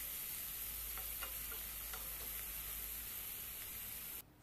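Chopped onions, green chillies and curry leaves sizzling in oil in a steel pan as they sauté, a steady hiss with a few faint ticks. It cuts off abruptly near the end.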